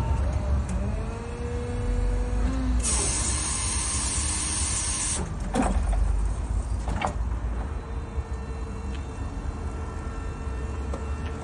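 Lansing counterbalance electric forklift truck running, its electric motors whining over a steady low rumble. A loud hiss lasts about two seconds a few seconds in, and two sharp knocks follow.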